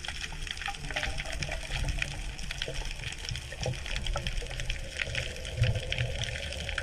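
Underwater ambience: a dense crackle of small clicks over a steady low hum.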